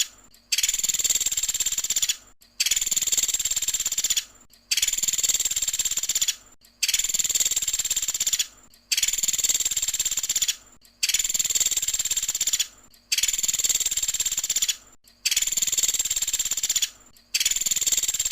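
Recorded call of the woodpecker known to bird keepers as pelatuk sampit: runs of rapid, high chattering notes, each about a second and a half long, repeating evenly with short pauses between them, about nine times.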